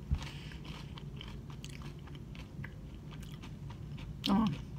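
A person chewing fish and chips close to the microphone, with many small crunches and mouth clicks. A short voiced hum comes near the end.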